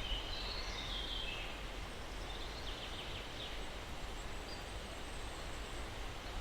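Steady breeze through trees with a low rumble. Birds chirp and chatter in the first second or so and again about three seconds in.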